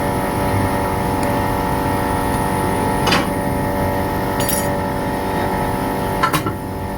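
Workshop machinery running with a steady drone, with a few sharp metal clinks about three, four and a half and six seconds in.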